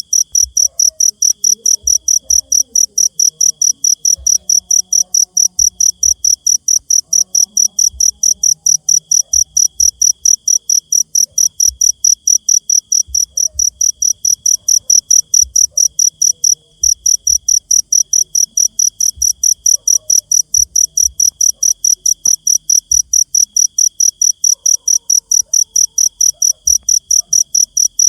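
A cricket chirping in a fast, steady pulse of one high tone, with a brief break about sixteen seconds in. A fainter, lower insect trill comes and goes in stretches of a second or two behind it.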